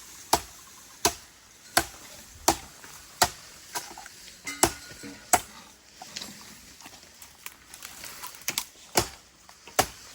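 A blade chopping into a bamboo stalk with repeated sharp strikes, about one every three quarters of a second, easing off for a couple of seconds in the middle.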